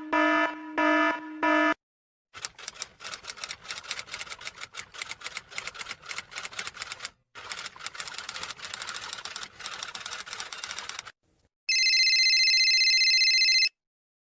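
A quick series of short pitched honks, then several seconds of rapid typing clatter, keys clacking fast with one brief break, and near the end a steady high-pitched tone held for about two seconds.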